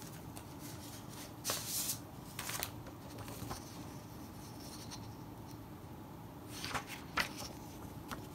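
Letter paper and envelopes being handled, rustling in short crisp bursts: a pair of rustles about a second and a half in, then a few more near the end, the sharpest about seven seconds in.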